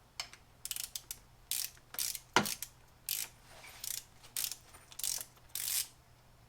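Hand ratchet wrench clicking in short back-and-forth strokes, about nine bursts roughly half a second apart, with one louder metallic clack about two and a half seconds in, during an engine teardown.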